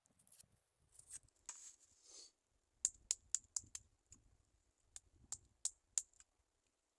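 Soft rustling and scraping, then a run of about a dozen sharp clicks and taps with light thuds, irregularly spaced, stopping a little after six seconds in.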